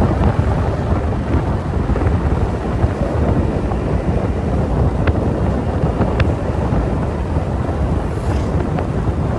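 Steady wind rumble on the microphone over a motorbike's engine and road noise during a ride.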